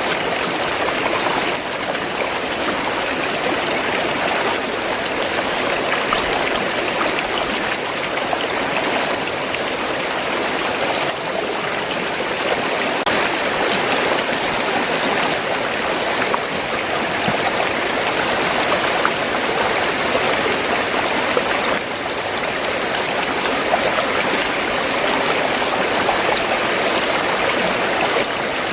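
Fast-flowing stream or river water gurgling and rushing over rocks, steady and continuous.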